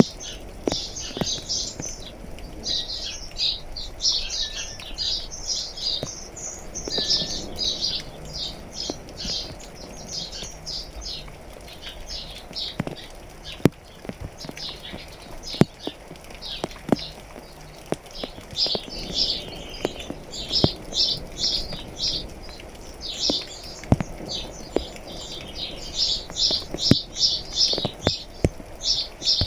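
Small birds chirping in quick trilled bursts, almost without pause, over light rain with scattered sharp drip taps from raindrops landing on a hard surface.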